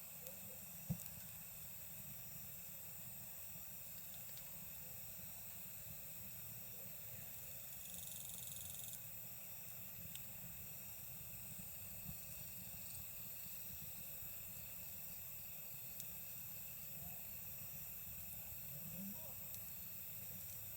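Wood campfire crackling with scattered sharp pops, the loudest about a second in. Under it, a steady chorus of chirring insects.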